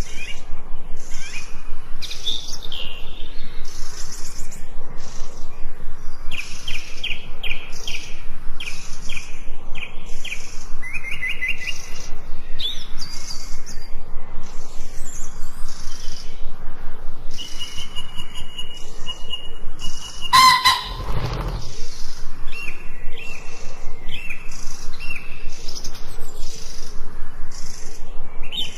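Several forest birds singing and chirping, with quick repeated notes and short trills overlapping one another. About twenty seconds in, a single louder, lower sound cuts across the song for about a second.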